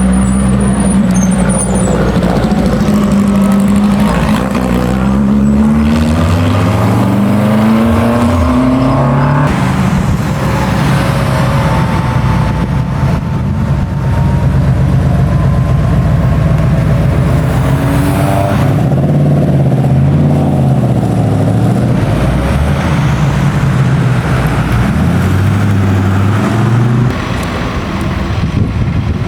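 Classic car engines running loudly, their revs climbing a few seconds in, with further rises and falls in pitch as cars accelerate and pass; the noise eases off near the end.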